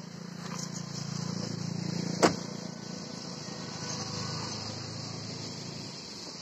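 Steady high-pitched insect chorus of crickets. Under it a low engine hum swells and then fades, and a single sharp click comes a little over two seconds in.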